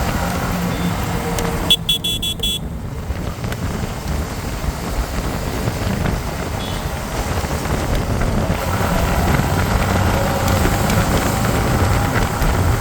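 Motorcycle running on the road, with engine note and wind noise, heard from the rider's helmet. About two seconds in, a rapid run of about six short, high beeps sounds over it.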